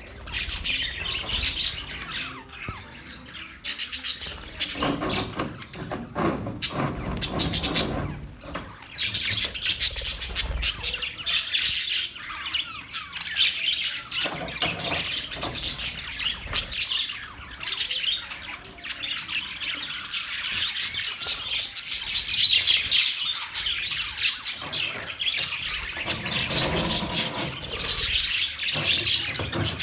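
Budgerigars chirping and chattering without a break, with harsher squawks mixed in.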